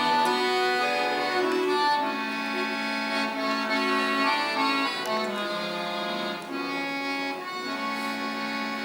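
Accordion playing an instrumental interlude of a song, held chords under a melody line, with no singing.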